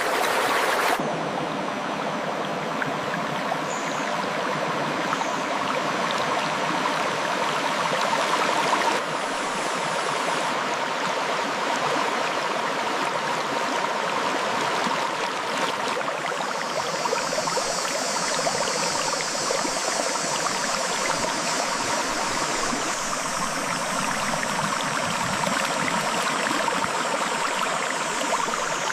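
Clear river water flowing between rocks, a steady rush of water. Its texture shifts a few times, with more hiss in the last third.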